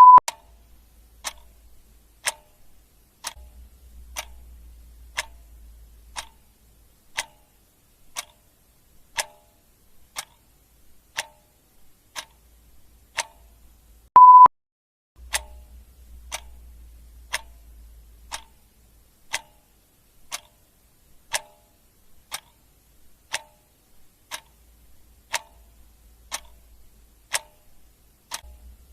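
Clock ticking steadily, one tick a second. A short electronic beep sounds halfway through and is the loudest thing.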